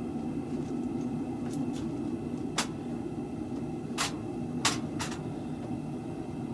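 A steady low hum of running shop equipment, with four sharp metallic clicks or taps over it, the last three close together in the second half.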